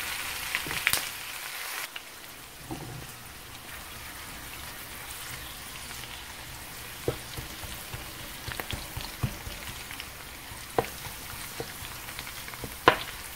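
Pork belly, minced garlic and green chilies frying in hot oil in a wok: a steady sizzling hiss with scattered sharp pops and clicks, a little louder in the first two seconds.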